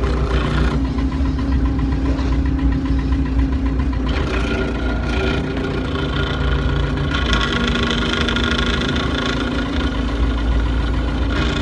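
Diesel engine of an old farm machine running steadily, a continuous low drone with a little more higher-pitched noise from about seven seconds in.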